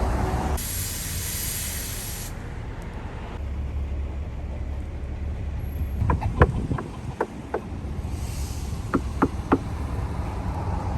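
Vehicle noise: a hiss lasting about two seconds near the start, then a steady low rumble, with two short runs of sharp clicks in the second half.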